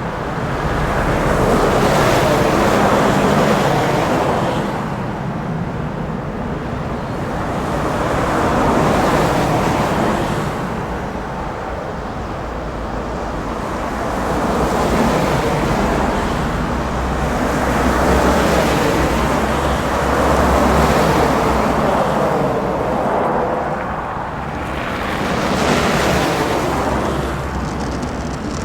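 Heavy plow trucks and traffic passing on a snowy highway: a rushing tyre-and-snow noise over a low engine rumble, swelling and fading several times as vehicles go by.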